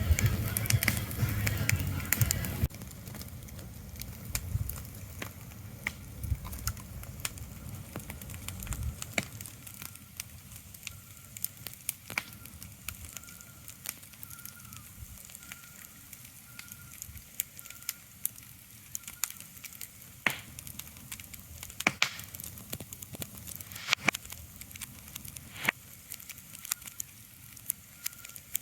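Steady soft crackling with many scattered sharp pops, like a campfire burning, with a louder low rumble in the first couple of seconds that then drops away. From about a third of the way in, a faint short high chirp repeats about once a second.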